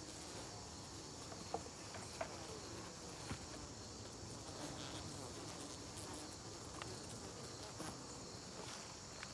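Steady high-pitched chorus of late-summer crickets, with honeybees buzzing close by as a faint wavering hum and a few faint knocks.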